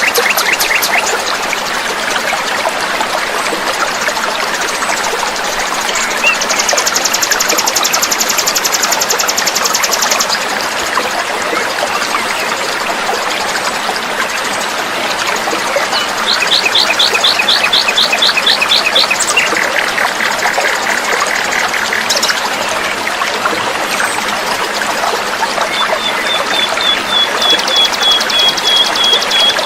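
Small songbirds singing a dense, rough fill of rapid trills and rattling note-series, in several phrases a few seconds apart, over a steady sound of trickling, flowing water.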